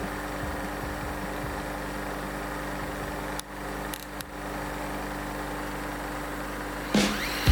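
A small electric motor, such as a bench grinder or drill used for sharpening, running steadily with an even hum, briefly dipping twice around the middle. Near the end a louder rough sound starts, as a tool begins working.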